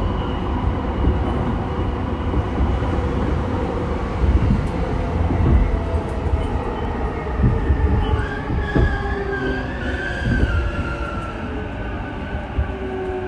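Interior running sound of a JR East E233 series electric train slowing toward a station: a steady low rumble of wheels on rail with occasional knocks. About eight seconds in, a high wavering whine joins it and sinks in pitch.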